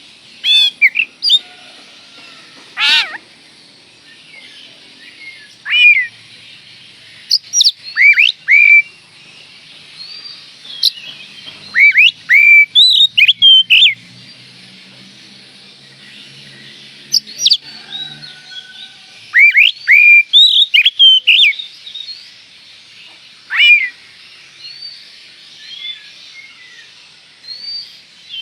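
Oriental magpie-robin (kacer) singing in full song: loud whistled and sliding phrases in bursts with short pauses between them, over a faint steady high hiss.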